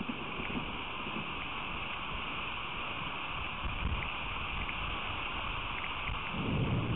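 Steady hiss of rain falling, with a low rumble swelling near the end.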